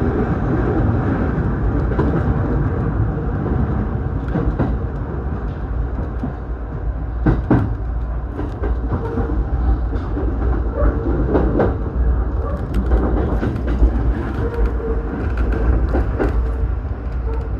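Kawagoe Line electric commuter train running, heard inside the carriage: a steady low rumble with scattered clicks and knocks.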